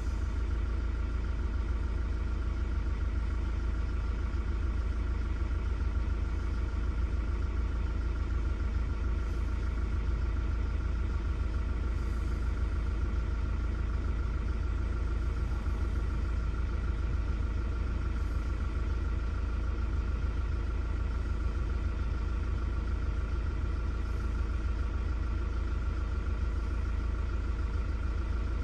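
Engine of a 2005 Kia Sorento, its 2.5-litre four-cylinder CRDi diesel, idling steadily with a deep rumble. It is a known good engine running normally.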